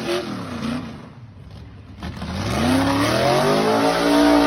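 Gasser drag car engine revving. It falls in pitch and fades to quiet about a second in, then climbs sharply in pitch from about two seconds in and holds a loud, steady note.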